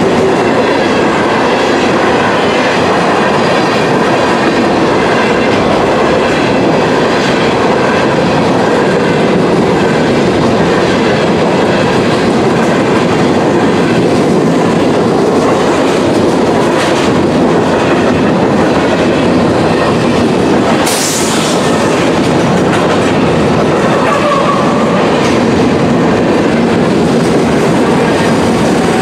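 Freight train of hopper cars rolling past: a steady rumble and clickety-clack of steel wheels on the rails. About two-thirds through, a brief sharp hiss cuts in, and near the end faint squealing tones come up, with the train on the verge of an emergency brake application.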